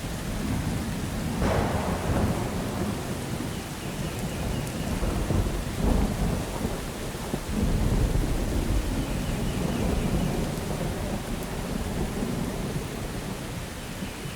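Thunderstorm with steady rain falling and thunder rumbling. The rumbles swell about a second and a half in, again around six seconds, and most heavily around eight seconds, then fade to a long low roll toward the end.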